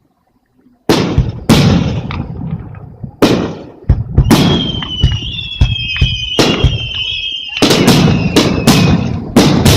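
Aerial firework shells bursting in a string of loud booms, starting about a second in, with high whistling tones over the bursts in the middle and a quick volley of bangs near the end.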